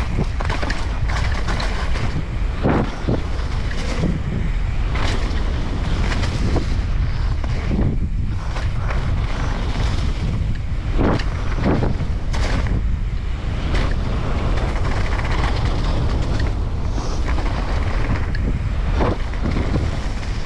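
Strong wind buffeting the microphone of a mountain biker's camera during a descent, with irregular knocks and rattles from the bike over rough trail.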